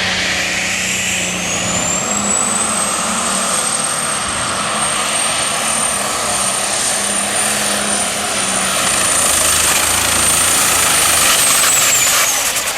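Super stock diesel pulling tractor running at full throttle under load, a dense engine roar with a high turbocharger whine. The whine rises over the first two seconds, holds steady, then falls away near the end as the throttle comes off.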